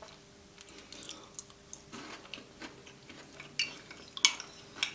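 Close-miked eating: a white chocolate Tim Tam being chewed, soft wet mouth sounds with several sharp clicks in the second half.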